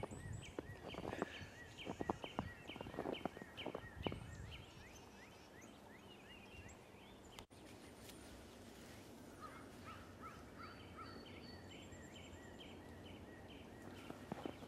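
A songbird singing a fast run of repeated chirping notes, several a second, then a second run after a pause. Footsteps crunching in snow sound under the first run.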